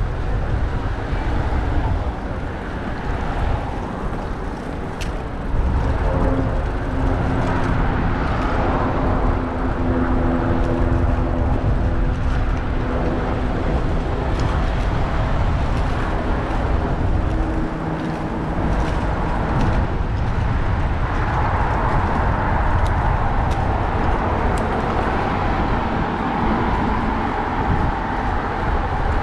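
City road traffic heard from a bicycle-mounted action camera while riding: a steady rumble of passing vehicles and wind on the microphone, with a vehicle's engine humming alongside for several seconds about a fifth of the way in.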